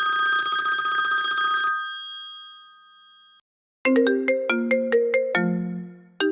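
Apple iPhone ringtones played one after another: a steady, bright ringing tone fades away and cuts off. After a short gap, about four seconds in, a different ringtone begins, a quick looping melody of short plucked notes.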